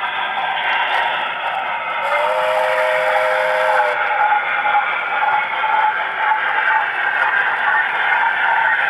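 OO gauge model train running on the track with a steady mechanical running noise. About two seconds in, a two-tone whistle sounds for about two seconds.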